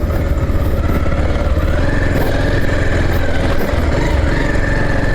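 A 220 motorcycle engine running steadily while being ridden.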